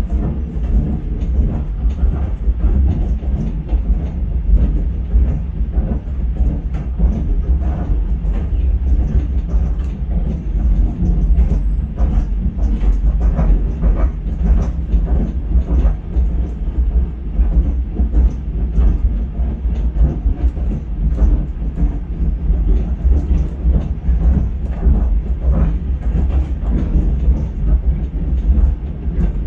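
Meter-gauge steam tramway train running along the track, heard from inside a carriage: a steady low rumble with frequent irregular knocks and rattles from the wheels and carriage.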